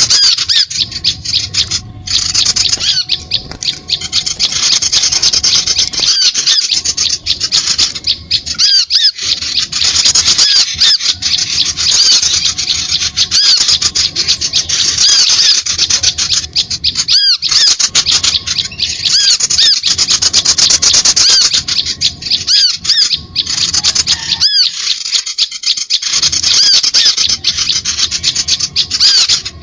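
Bird-lure recording of small birds: rapid, unbroken high-pitched chattering and chirping, with a few short breaks.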